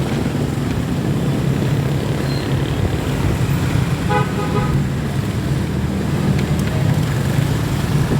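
Steady low road and traffic rumble, with a short vehicle horn toot about four seconds in.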